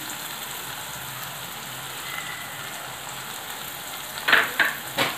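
Onion-tomato masala sizzling steadily in hot oil in a steel kadai. Three short clatters come near the end.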